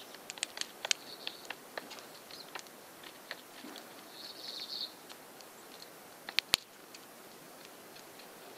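Female hairy woodpecker pecking at a suet chunk held in the hand: a quick, irregular run of small sharp taps over the first few seconds, a brief high call about four and a half seconds in, and two louder sharp knocks about six and a half seconds in.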